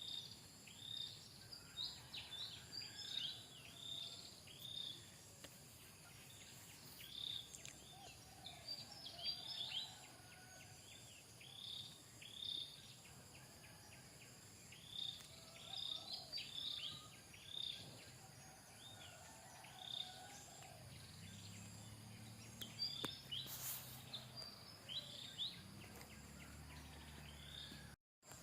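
Small birds chirping: many short, high calls in quick clusters, with a faint low hum underneath that swells near the end.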